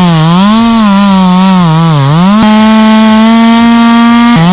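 Two-stroke chainsaw running at high revs. Its pitch sags and recovers over the first two seconds or so as it bogs under load in the cut, then it holds a steady, higher pitch at full throttle, dipping briefly near the end.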